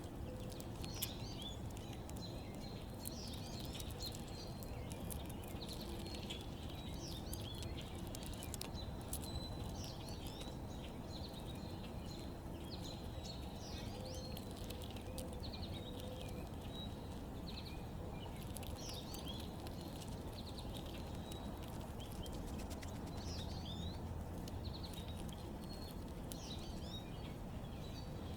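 Small backyard birds chirping, many short calls coming one after another, over a steady low background rumble.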